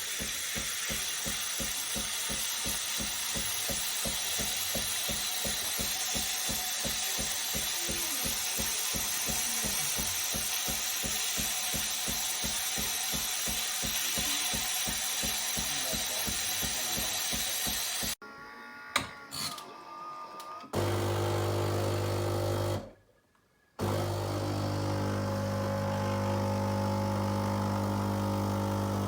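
Bean-to-cup espresso machine running with a steady, even pulsing for about eighteen seconds, then cut off. Held low music notes follow, with a short dropout.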